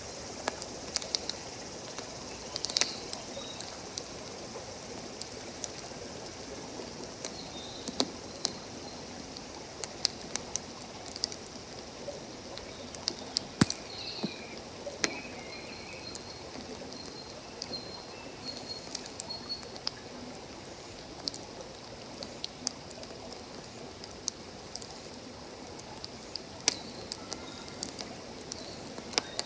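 Wood campfire crackling, with sharp irregular pops throughout, over the steady rush of running water.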